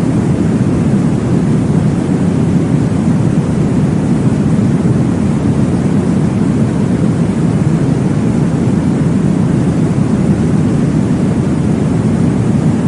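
Steady, deep whooshing noise, heavy in the bass and thin in the treble, without change or pulses: a womb-sound style noise track for lulling a baby to sleep.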